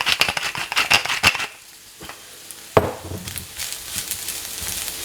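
Fried rice sizzling in a hot pan while it is stirred, with quick scraping clicks for about the first second and a half. The sizzling then drops quieter, with one sharp knock a little past the middle.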